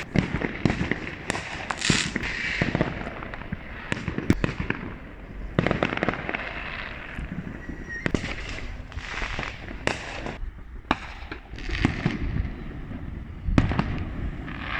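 Fireworks going off all around: an irregular string of sharp bangs and crackles, with hissing swells in between.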